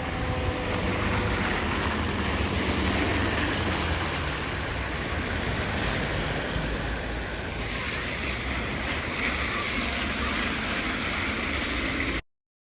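Road traffic noise: steady vehicle engine rumble with tyre hiss, cutting off abruptly near the end.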